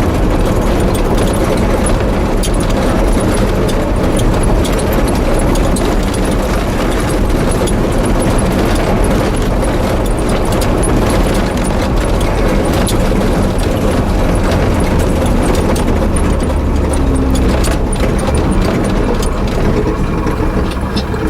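Pickup truck driving, with a steady engine hum and road noise.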